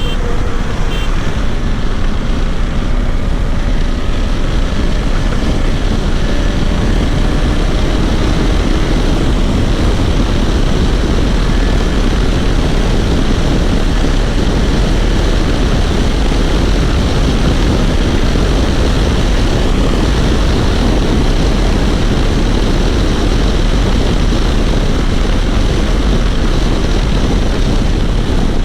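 KTM 390 Adventure's single-cylinder engine running at road speed, largely buried under steady wind rush on the microphone. A faint engine note rises over the first few seconds.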